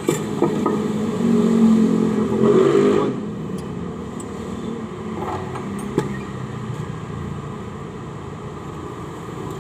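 Steady rumble of background traffic, louder in the first three seconds, with a few sharp clicks and knocks as the heavy cylinder head of a 4BE1 diesel engine is worked loose and lifted off the block, one clear click about six seconds in.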